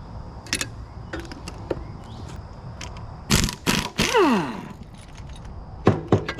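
Impact wrench taking bolts off a winch, run in two short bursts about three and a half seconds in, its motor then winding down in a falling whine. Sharp metallic clicks of the socket and parts come before and after.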